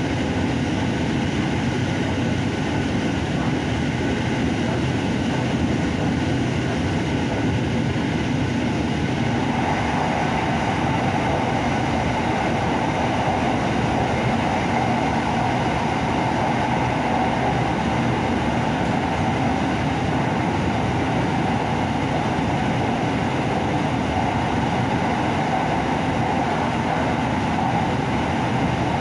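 Electric commuter train of the SRT Red Line running at speed, heard from inside the carriage as a steady rolling and running noise. About a third of the way through, a steadier hum comes up over it and then holds.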